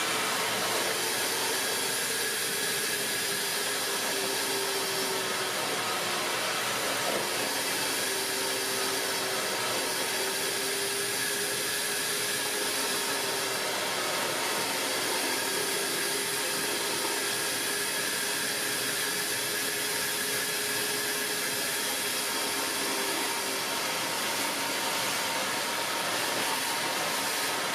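Vacmaster VQ607SFD stainless steel wet/dry vacuum running steadily while sucking water out of a bucket.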